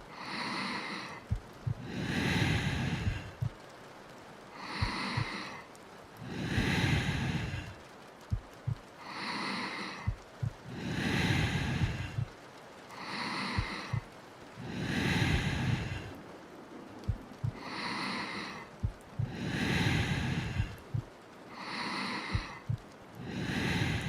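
A woman's slow, deep breathing, in and out about once every four and a half seconds, with soft heartbeat thumps, often in pairs, between the breaths.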